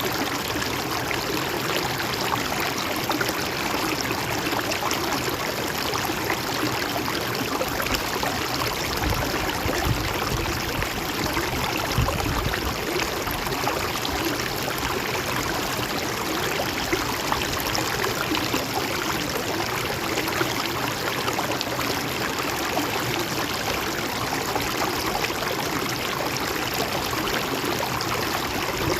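Flowing river water running steadily, with a little more low rumble for a few seconds in the middle.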